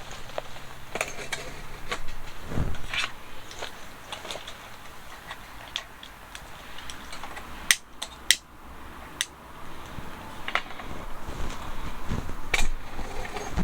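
Irregular clicks, taps and knocks of hard objects being handled, with two sharp clicks close together about eight seconds in.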